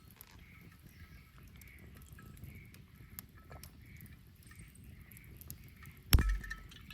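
Wood fire crackling with small scattered pops, then one loud sharp bang with a short low thump about six seconds in.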